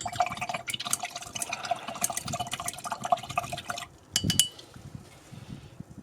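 A paintbrush stirring water into thick acrylic miniature paint to thin it. It makes a run of small wet clicks and scrapes for about four seconds, then a couple of sharp clinks, and goes quieter.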